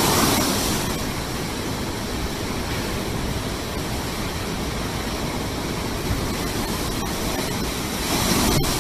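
Steady rush of fast-flowing floodwater, with no pitch or rhythm, swelling slightly near the start and again near the end.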